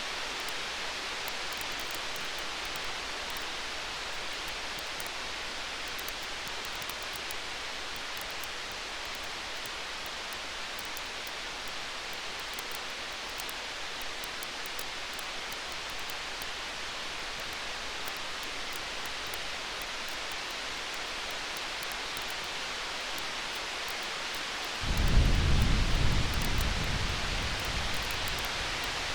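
Steady hiss of a campfire with scattered faint crackles throughout. About 25 seconds in, a deep rumble of distant thunder starts suddenly and fades over about three seconds.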